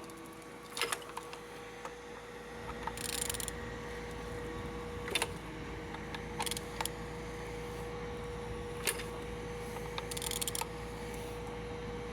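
Truck engine being turned over by hand: scattered sharp metallic clicks and two short rattling bursts from the tool and the turning engine, over a steady background hum.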